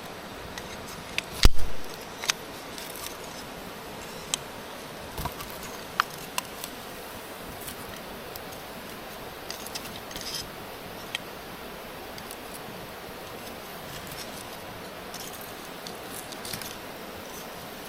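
Scattered light clicks and metallic clinks, with one heavy thump about a second and a half in, over a steady low hiss.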